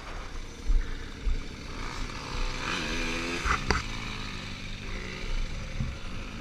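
Dirt bike engine on a motocross track, revving up and dropping back as it rides, loudest about three seconds in, with a sharp click just after. Low thumps of wind on the microphone come early on.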